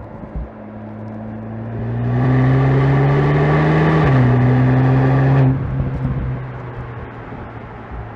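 2025 VW Golf GTI Clubsport's turbocharged 2.0-litre four-cylinder engine and exhaust under hard throttle, the pitch climbing slowly. About four seconds in the pitch steps down in a quick upshift while it stays loud. A second and a half later the throttle is lifted and it drops suddenly back to a quieter run.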